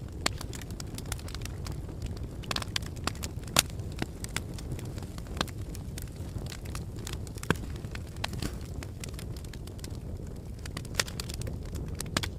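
Wood fire burning in a fireplace: a steady low rumble of flames with irregular sharp crackles and pops, two louder pops about a third and over halfway through.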